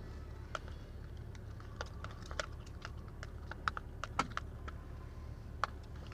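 A spoon clicking and tapping irregularly against a container while stirring a glue mixture for slime, over a low steady hum.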